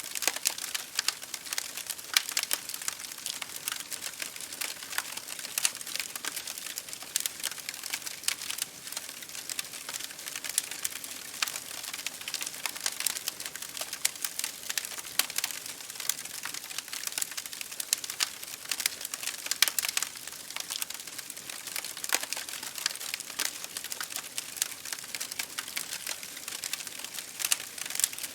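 Campfire crackling: a dense, irregular run of sharp pops and snaps over a steady hiss.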